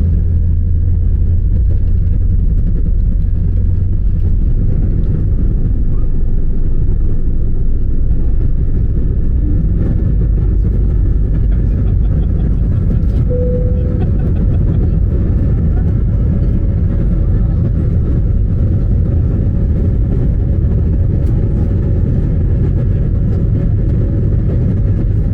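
Airliner's engines during take-off: a loud, steady rumble with a faint steady whine above it.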